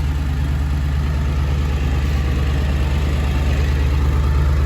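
Ford 7.3 Power Stroke turbo-diesel V8 running steadily on high idle, a constant low diesel drone.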